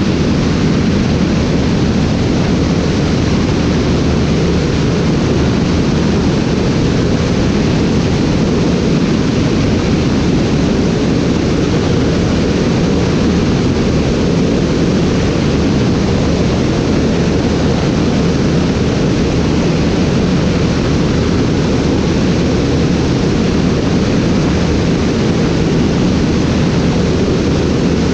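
Steady loud rushing noise of an aircraft in flight, wind and engine blended into one even roar with no change in pitch, heaviest in the low range.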